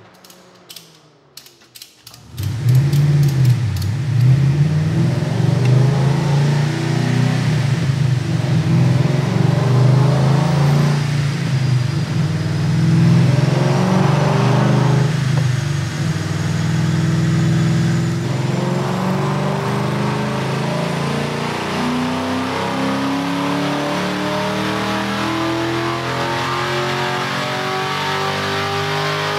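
2007 Ford Mustang GT's stroked 4.6 L three-valve V8, with long-tube headers and Magnaflow mufflers, running under load on a chassis dyno. It comes in loud about two seconds in, and through the second half the revs climb steadily in a dyno pull, with a high whine rising along with it.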